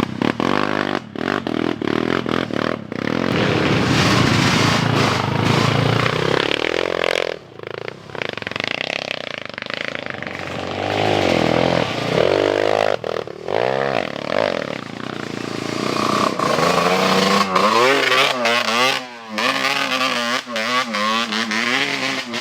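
Motocross dirt bike engines revving hard as the bikes climb a steep hill. The pitch rises and falls over and over, with quick throttle blips and wavering revs in the second half.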